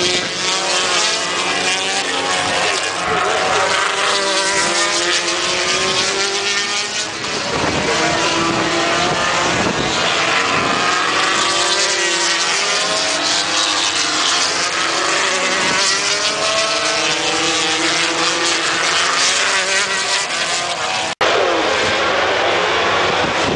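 Racing motorcycles on track, several engines at once, their pitch rising and falling as they rev and shift. There is a sudden brief break about 21 seconds in.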